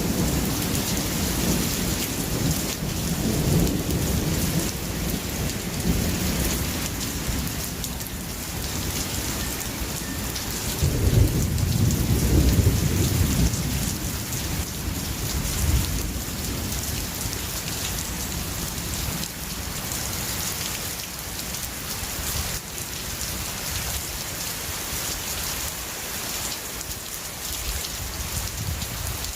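Steady heavy rain falling, with rolling thunder: a rumble early on and a louder one about eleven seconds in that dies away, leaving rain alone for the rest.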